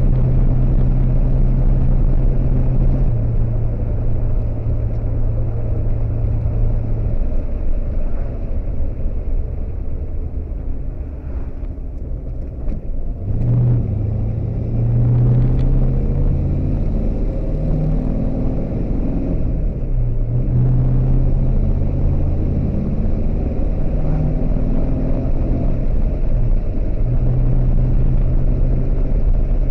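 1979 Pontiac Trans Am's 400 V8 engine running on the road. About eleven seconds in the engine note drops away for a couple of seconds. It then picks back up, its pitch shifting up and down.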